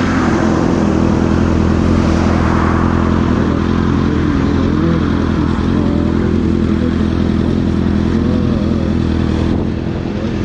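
Honda sport motorcycle's engine idling steadily while the bike stands still, with light clatter and scraping from a strap being handled over the seat.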